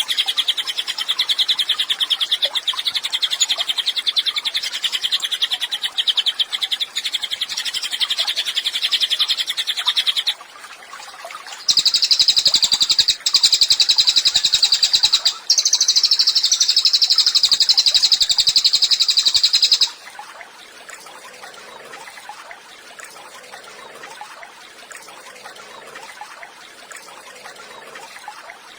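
Cililin songbird singing long, fast, rattling trills. A lower trill runs for about ten seconds, then after a short pause come two higher trills of several seconds each. The song stops about two-thirds of the way through, leaving only faint background hiss.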